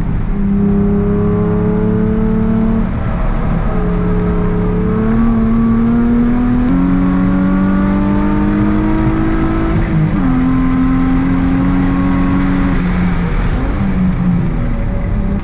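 Nissan 350Z's 3.5-litre V6 engine pulling hard on track, heard from inside the cabin. Its note climbs slowly in pitch with a brief lift about three seconds in, drops about ten seconds in, and turns unsteady near the end.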